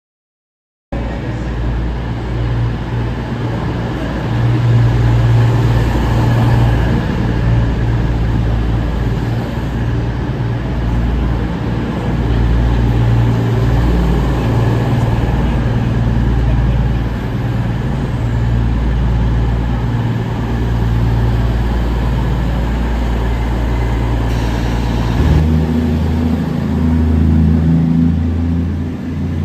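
A train's engine running at a station platform: a loud, steady low drone that changes note about 25 seconds in.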